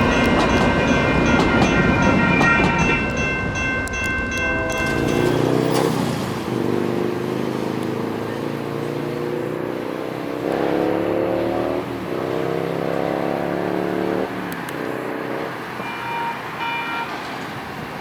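Sacramento light rail train running by with a rumble and repeated high ringing tones for the first few seconds, then an electric whine that rises in several steps as the train pulls away.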